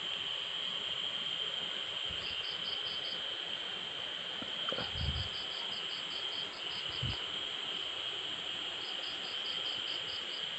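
Night insect chorus: a steady high-pitched insect drone, with another insect chirping in three bursts of rapid, evenly spaced pulses. Two brief low thumps come in the middle.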